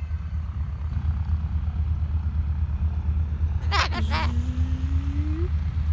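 A steady low rumble, with one short call about four seconds in: a sharp high onset that drops into a long, slowly rising hum.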